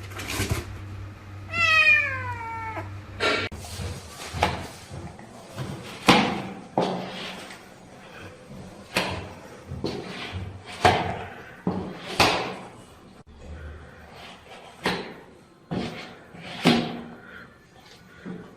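A cat meowing: one long meow falling in pitch about two seconds in, followed by a string of short, sharp sounds every second or two.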